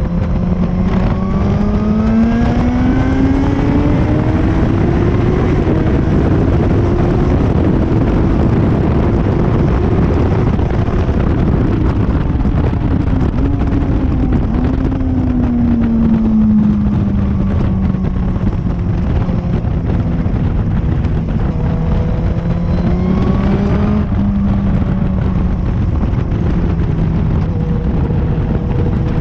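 Motorcycle engine at speed on a race track, heard from on board under a heavy rush of wind. Its note climbs through the first several seconds as the bike accelerates, holds, then falls back about halfway through as it slows, with a short rise and drop again later.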